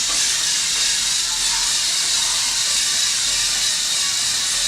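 Home-built robotic vacuum cleaner running, its fan giving a steady, high-pitched hiss.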